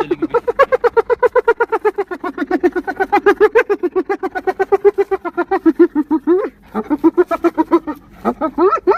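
An animal calling in a fast, unbroken run of short, pitched yips, about nine a second, with a brief pause about six and a half seconds in and another near the end.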